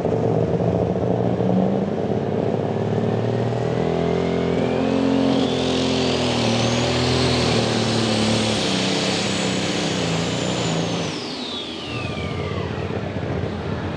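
Super stock diesel pulling tractor under full power down the track. The engine runs hard with a high whine that climbs steadily, holds at its peak, then falls away as the engine comes off the power near the end.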